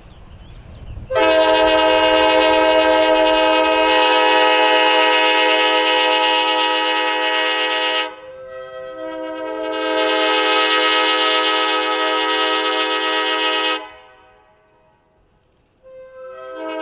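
Nathan K5LA five-chime air horn on an ALCO S1 switcher sounding a long blast of about seven seconds. It dips briefly, swells into a second blast of about four seconds, and a short blast starts near the end.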